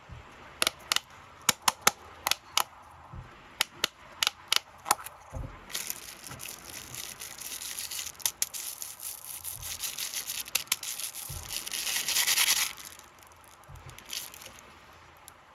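Plastic snack packaging handled close up: a run of sharp crackling clicks, then a long crinkling rustle that builds and is loudest just before it cuts off suddenly, a little under two-thirds of the way through.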